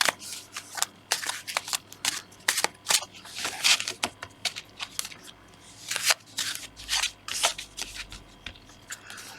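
Tarot cards being shuffled by hand: an irregular run of quick card flicks and rustles.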